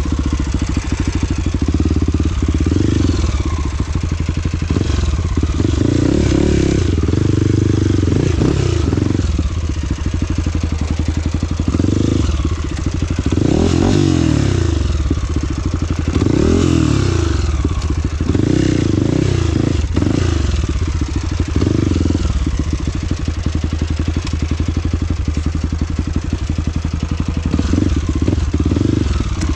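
Trail motorcycle engine running under load, its revs rising and falling over and over as it is ridden.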